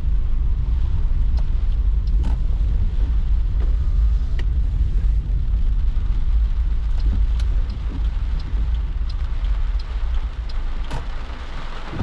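Low rumble of a car's road and engine noise heard inside the cabin, dropping away about two thirds of the way in as the car pulls over and slows to a stop, with scattered ticks of rain on the car.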